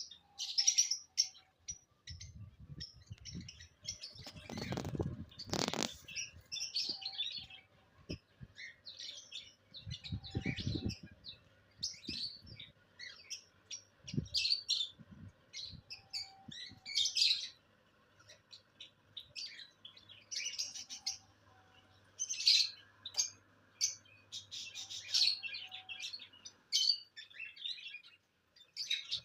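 Small pet birds chirping and tweeting continuously, many short high calls overlapping. A couple of low rumbling thuds come about four to six seconds in and again about ten seconds in.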